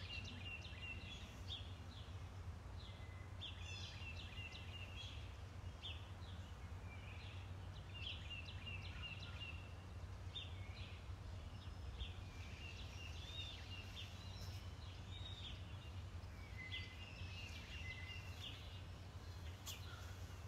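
Small songbirds chirping and singing in short repeated phrases and trills, over a steady low background rumble.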